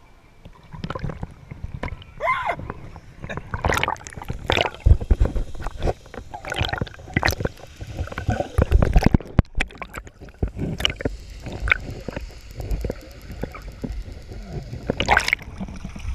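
Lake water splashing and sloshing, with irregular splashes and gurgles.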